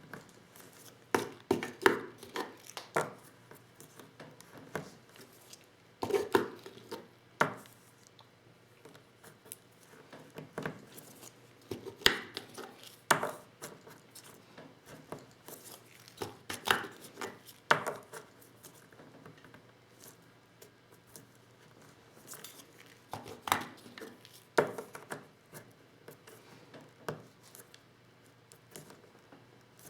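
Hand-reloading 12-gauge shotgun shells with a Lee Loader kit: irregular clicks, taps and knocks of the tool parts and shells being handled and set down, with louder knocks every few seconds.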